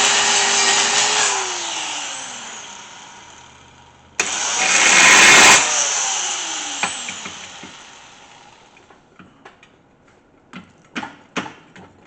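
A motor-driven power tool runs in two short bursts, the second a few seconds after the first. Each burst is loud and full of noise, and each time the tool's pitch falls away as it winds down. A few small clanks follow near the end.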